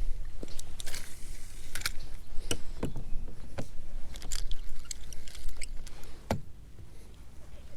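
Irregular knocks and clunks on a fishing kayak, with a low rumble underneath.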